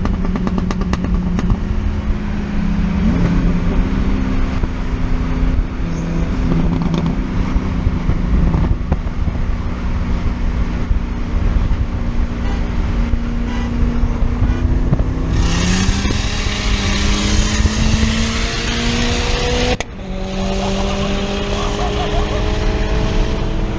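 A Ford Fiesta ST's turbocharged 1.6-litre four-cylinder, with a big turbo, an external wastegate and an MBRP catback exhaust, running at steady revs. From about 15 seconds in it accelerates with rising pitch and a loud rushing hiss over the engine note. The sound breaks off abruptly near 20 seconds in, then rises again.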